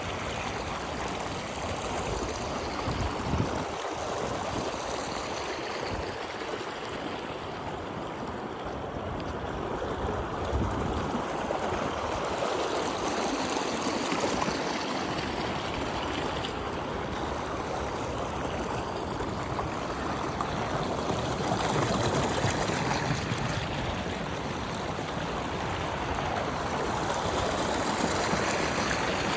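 A stream flowing steadily, with an even rush of water.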